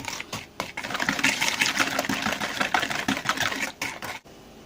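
A utensil stirring and scraping quickly against the side of a bowl, mixing thick melted chocolate with powdered sugar; the stirring stops about four seconds in.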